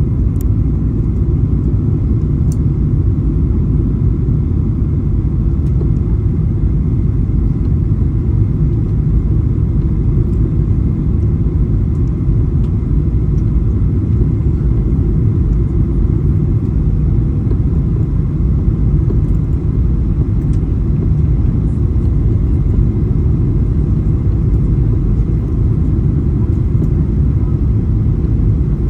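Steady low rumble of engine and airflow noise inside the cabin of a Boeing 737-800 airliner.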